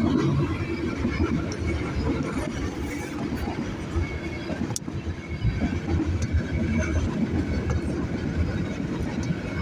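Freight train passing, a steady rumble with a sharp click about five seconds in.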